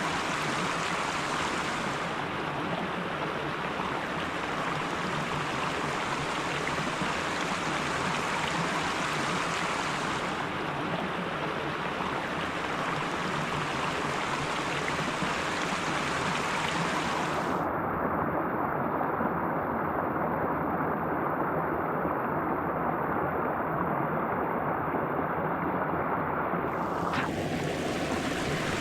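A stream's water rushing steadily, an even, unbroken sound.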